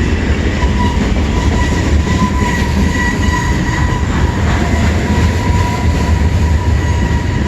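CN freight train rolling slowly past as it comes to a stop: a steady low rumble of the cars, with a thin high squeal that comes and goes.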